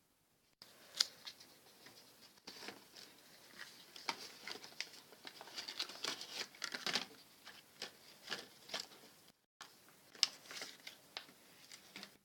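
A square sheet of paper being folded by hand: irregular rustling and crisp crackles as the corners are pushed in and the creases pressed, with a brief break about three quarters of the way through.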